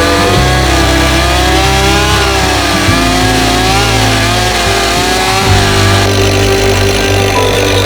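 Gas chainsaw running and cutting into wood, its engine pitch rising and sagging as it bites, over background music.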